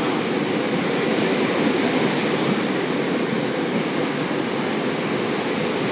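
SEPTA Regional Rail train rolling steadily past a station platform: a steady rushing rumble of the cars' wheels on the rails.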